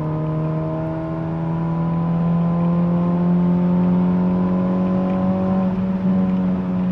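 Modified Honda Civic with a tuned exhaust pulling under acceleration, its engine and exhaust drone climbing slowly and steadily in pitch. The exhaust note is heavy.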